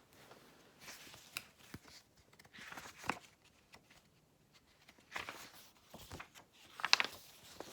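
Picture book being handled and its pages turned: soft paper rustles and a few sharp clicks, the loudest cluster about seven seconds in.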